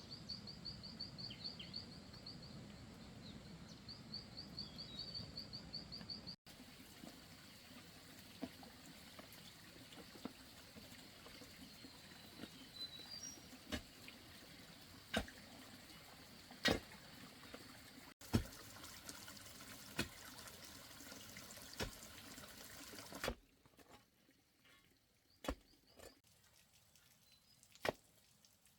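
Faint stream water trickling, with scattered sharp drips and splashes. A high, rapid chirping runs through the first six seconds. The background changes abruptly a few times and is quieter near the end.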